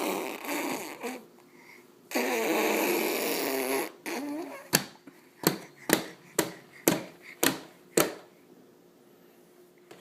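Babies blowing raspberries: buzzing, voiced lip trills, one brief and one longer lasting about two seconds, followed by a run of about seven short sharp pops, roughly two a second.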